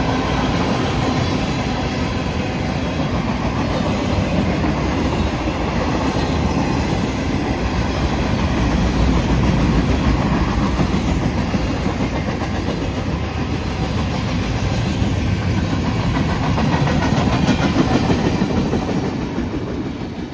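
Freight train cars rolling past, steel wheels clacking over the rails in a steady loud rumble that begins to fade near the end as the train goes by.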